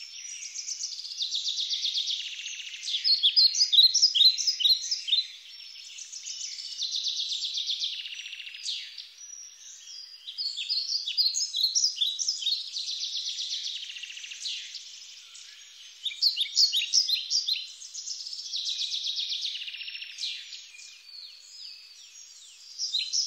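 A songbird singing in repeated phrases. Each phrase is a fast buzzy trill followed by a run of sharp, falling notes, and the phrases come every five or six seconds.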